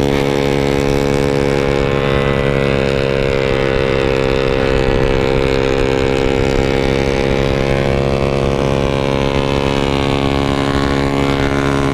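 Yamaha RX-King 135cc single-cylinder two-stroke engine running hard at a nearly steady pitch, pulling uphill under heavy load. It labours on the climb: the rider says it goes up heavily and needs a bore-up.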